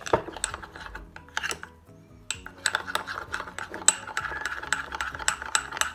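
Metal spoon stirring a thin flour-and-water batter in a small ceramic bowl, clinking against the bowl's sides in quick, irregular taps, about four a second for most of the stretch.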